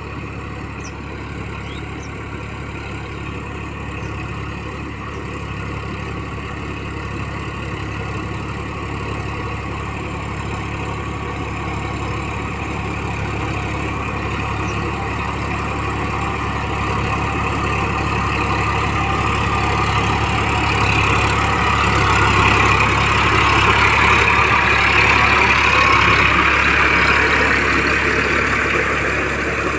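Massey Ferguson 9000 diesel tractor engine running steadily while puddling a muddy field. The sound grows gradually louder for about twenty seconds, then eases a little near the end.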